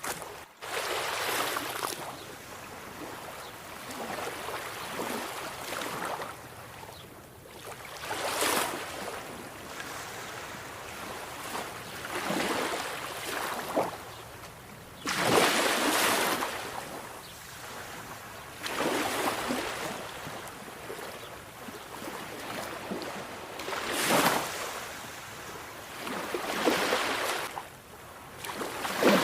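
Sea waves breaking on a shore: a rushing surf that swells and falls back every few seconds, with some waves crashing in sharply. The sound cuts out for an instant about half a second in.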